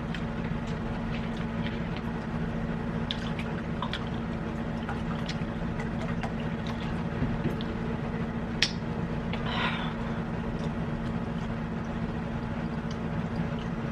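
Close eating sounds: wet chewing and mouth noises with scattered small clicks, over a steady low hum.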